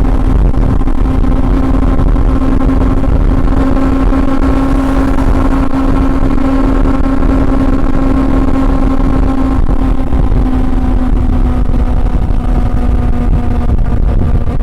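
Honda CB400 Super Four's inline-four engine running at a steady cruise, a constant engine hum over heavy low wind rumble on the microphone. The engine pitch eases slightly down after about ten seconds.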